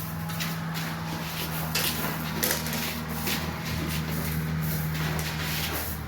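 Snow-clearing work: irregular scraping and crunching strokes on snow over a steady low hum.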